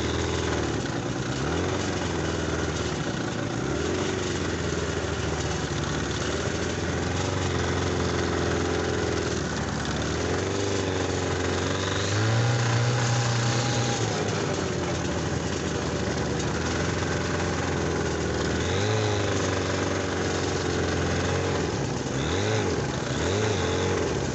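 Buran 640 RMZ snowmobile's two-cylinder two-stroke engine running under load while towing a fully loaded firewood sled, revving up and down repeatedly as the throttle is worked.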